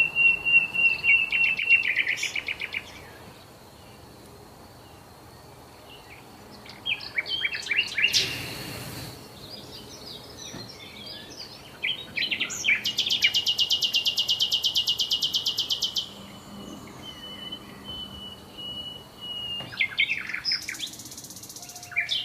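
Songbirds singing: a series of high, fast trills and chirps in separate phrases with short pauses between them, the longest lasting about three seconds past the middle.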